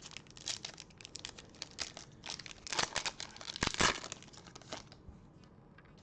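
Plastic trading-card pack wrapper being torn open and crinkled by hand, a dense run of crackles and sharp rips that is loudest a little past halfway and dies away about five seconds in.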